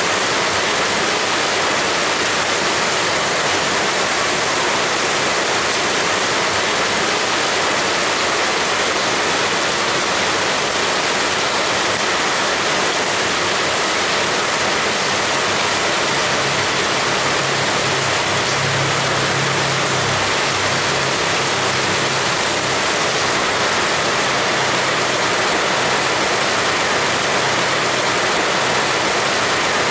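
Heavy rain pouring down steadily, an even unbroken rush. A low hum joins underneath a little over halfway through and lingers.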